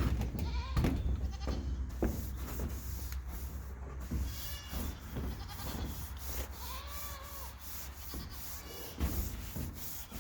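Stiff brooms scrubbing a roof with soapy bleach water, in repeated uneven scraping strokes. A farm animal calls a few times, most clearly about seven seconds in.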